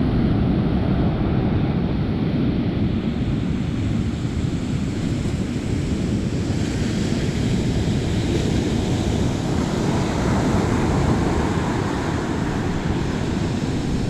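Ocean surf breaking and washing on a beach as a steady rush, with wind rumbling on the microphone.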